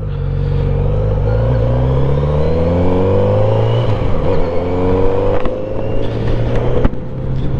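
Kawasaki motorcycle of about 900 cc accelerating away through the gears: its engine note rises, drops at a gear change about four seconds in, rises again and shifts once more a little later.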